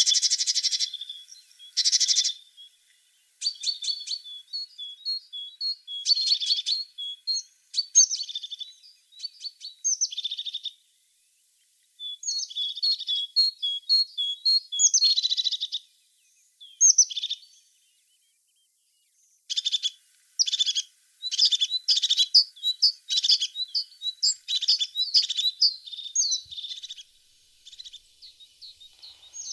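A tit singing: quick, high chirping phrases broken by pauses of a second or two.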